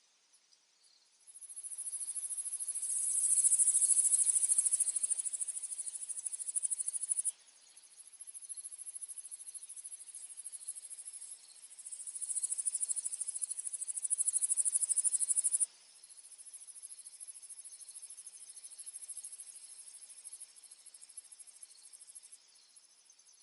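Insects singing: a high, rapidly pulsing trill with fainter insect tones beneath it. It swells loud twice, and each time it cuts off abruptly.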